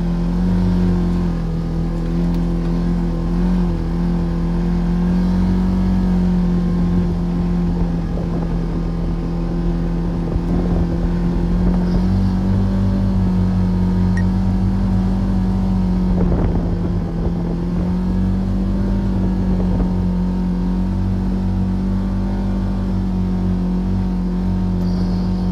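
Polaris RZR Trail Ultimate side-by-side's engine running at a steady, constant speed while the machine pushes through deep snow.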